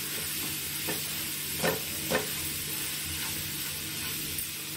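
Onion, tomato and spice masala sizzling in a nonstick frying pan while a wooden spatula stirs it, with two louder spatula strokes against the pan about one and a half and two seconds in.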